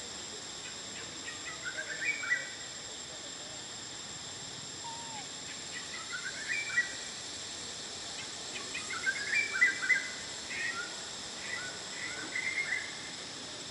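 Birds calling in several short bursts of quick chirping notes, loudest about two-thirds of the way through, over a steady high hiss.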